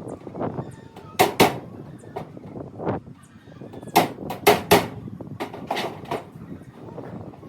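Sharp knocks on metal in irregular groups during welding work on a steel piece: two close together a little over a second in, three close together around four to five seconds in, and lighter single knocks between and after.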